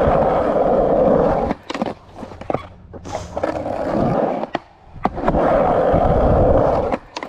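Skateboard wheels rolling over concrete in three long stretches, with sharp clacks of the board and wheels striking between them.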